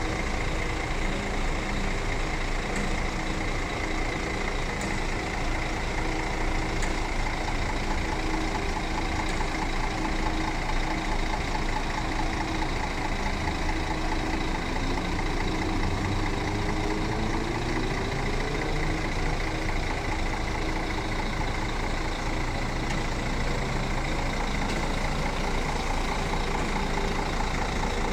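A steady engine running, with a few tones gliding upward in pitch about halfway through.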